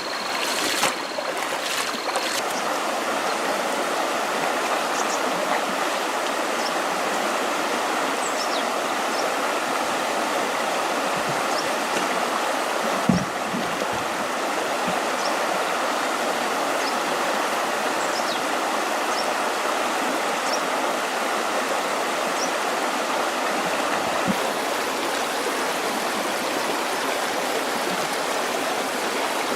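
Steady rushing of a flowing stream, with a few faint, short high chirps scattered through it and a single soft knock about halfway through.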